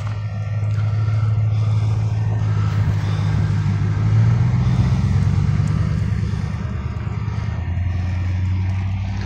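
A vehicle engine running steadily with a low hum, swelling over the first second and changing pitch about halfway through.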